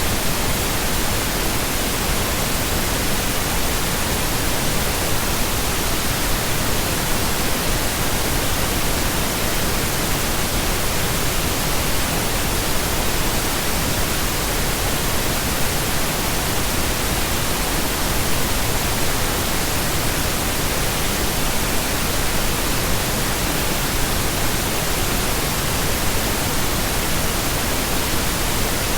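Continuous pink noise: a steady, even hiss spread across all pitches, with no changes or breaks.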